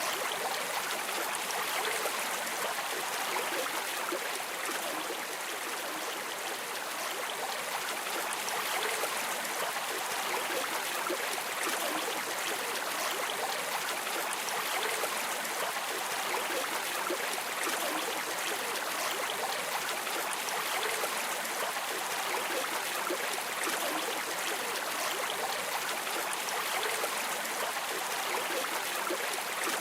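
River water streaming and splashing in a steady, even rush.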